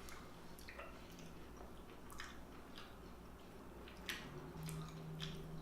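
Close-up mouth sounds of a person chewing seafood: scattered wet clicks and smacks. A low steady hum joins in about four seconds in.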